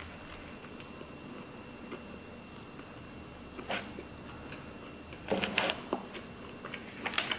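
Quiet chewing of a burger, with a few short clicks and a louder clatter about five and a half seconds in as a ceramic plate is set down on the table.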